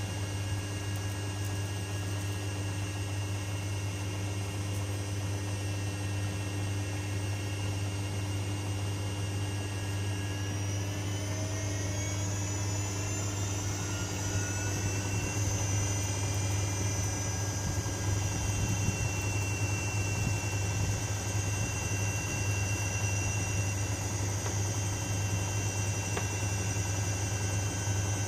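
Privileg Sensation 9245 washing machine running with a steady hum; about ten seconds in, its motor whine rises in pitch over several seconds as the drum speeds up, then holds steady at the higher speed.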